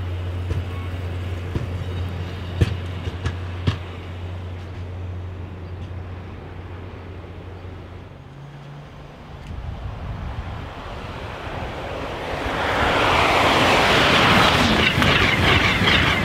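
A low steady hum that cuts off about halfway through, then a train approaching and passing at speed: a loud rising rush of wheel and air noise, with fast repeated clicks of wheels over the rails in the last few seconds.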